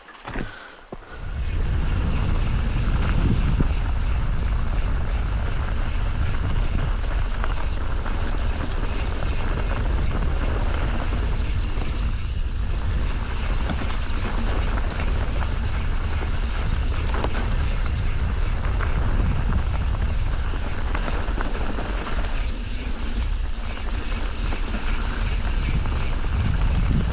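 Wind buffeting the microphone: a steady, loud low rumble that starts about a second and a half in, with a few faint clicks.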